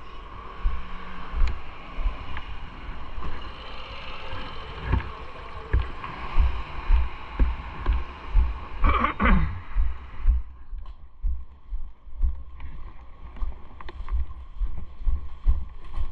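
Riding noise on a bike-mounted camera: repeated low buffeting and road rumble, with a brief falling whine about nine seconds in. Soon after, the higher hiss drops away and the low thumping goes on.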